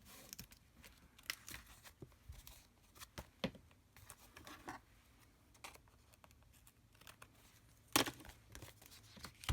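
Paper and card being handled: a string of short crinkles and tearing sounds, with a louder one about eight seconds in.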